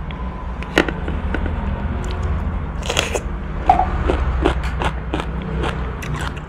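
Close-up chewing of crisp raw cucumber: a string of short wet crunches and mouth clicks over a steady low hum.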